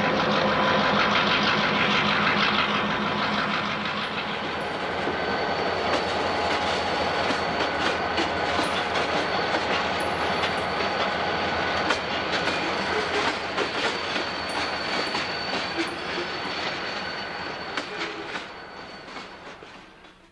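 Diesel freight locomotives passing with their engines running in a steady drone, followed by rolling freight cars whose wheels click over the rail joints, with a thin high whine alongside; the sound fades away near the end.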